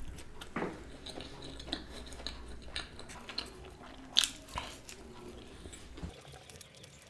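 A man chewing a mouthful of pizza close to a microphone, with scattered wet mouth clicks, the sharpest about four seconds in.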